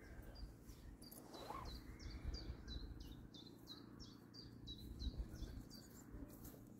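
A small bird singing: a run of short, high, falling notes, about three a second, starting about two seconds in and stopping near the end, over a low rumbling background.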